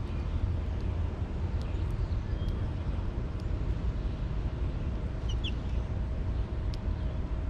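Steady low outdoor rumble, with a few light ticks and a couple of faint, short bird chirps about five and a half seconds in.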